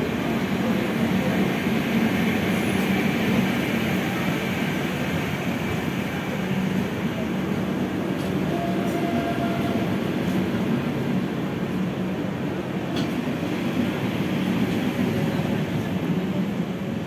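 Double-decker passenger train rolling along the platform: a steady rumble of coaches and wheels on the rails.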